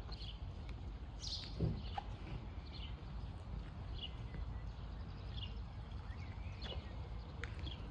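A small bird chirping over and over, short high falling calls about once a second, over a steady low rumble of wind on the microphone.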